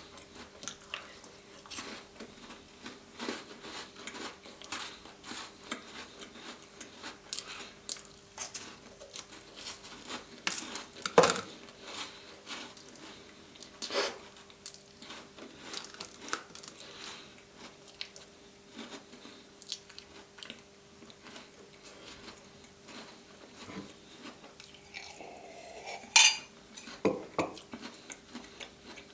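Close-miked chewing and crunching of Tim Tam chocolate biscuits: many small crackling clicks, with a few louder sharp ones about eleven seconds in and near the end.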